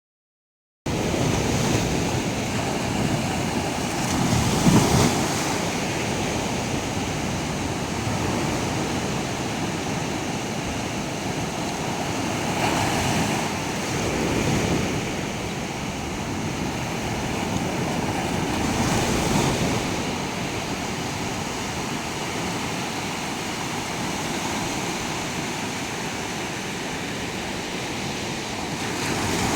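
Sea surf washing onto a beach: a steady rush of water that swells each time a wave breaks, every six or seven seconds.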